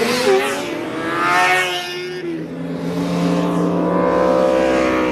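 Cars driving past one after another with their engines revving, the pitch of each climbing and then dropping as it goes by.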